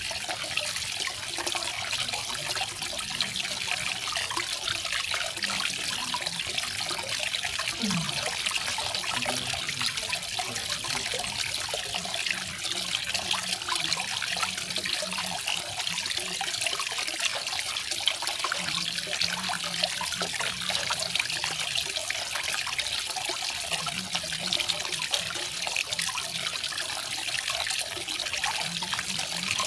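Small garden waterfall splashing and trickling steadily, an even hiss of falling water.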